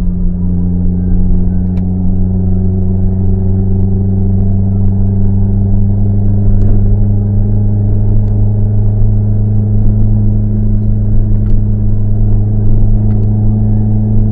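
Car exhaust through an HKS Silent Hi-Power muffler, a deep steady drone while driving at nearly constant engine speed.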